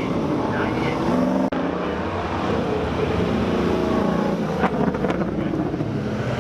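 Car engines running loud and steady, the sound of GM LS V8-powered race cars, with a brief sudden break about a second and a half in.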